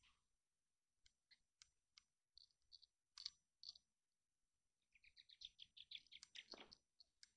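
Faint small-bird chirping: scattered single high chirps, then a quick run of chirps near the end.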